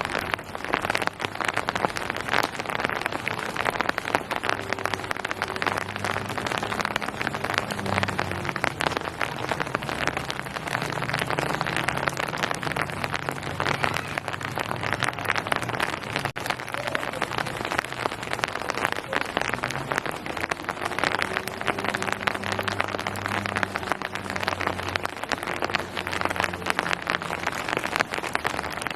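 Steady rain falling and pattering on surfaces, with many separate drop hits. A faint low hum comes and goes twice beneath it.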